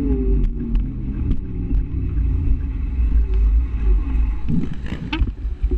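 Scooter riding in traffic: a steady, loud low rumble of motor, road and wind noise that eases off near the end.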